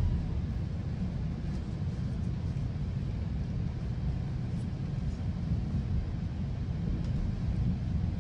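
GO Transit commuter train running at speed between stations: a steady low rumble of wheels on track and the running train, even throughout.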